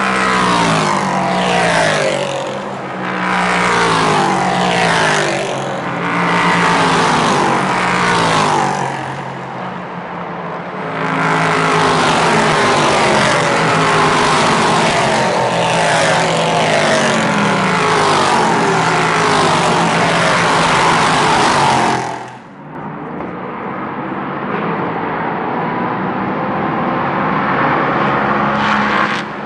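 Endurance race cars passing one after another at speed, each engine note falling in pitch as it goes by. About two-thirds of the way through the sound cuts abruptly to a single car's steadier engine note, which rises in pitch near the end.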